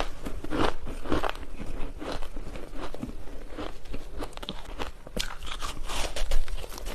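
Ice being bitten and chewed: a run of irregular, crisp crunches, loudest about five to six seconds in.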